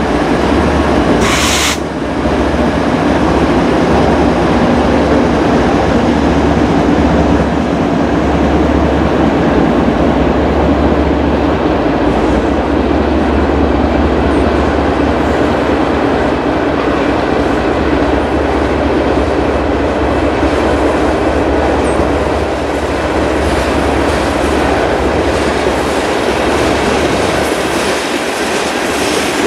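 A long mixed freight train's covered hoppers and tank cars rolling past, the wheels rumbling and clattering over the rail joints in a steady, continuous run of sound. A short hiss sounds about a second and a half in.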